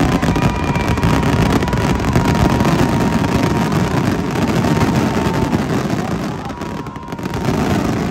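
Fireworks finale: a dense barrage of bursts running together into a continuous rumbling crackle, with a long steady whistle heard over it.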